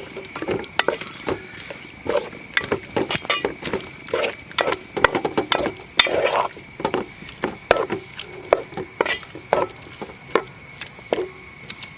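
A spatula stirring a cornflour-thickened sauce in a pan, with irregular clicks and scrapes of the utensil against the pan.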